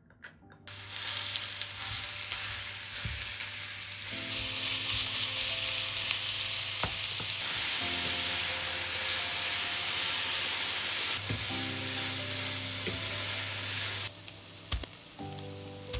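Ground beef sizzling as it browns in a hot pan, with a few sharp knocks of a utensil stirring it. The sizzle cuts off suddenly near the end, leaving a few quieter clicks.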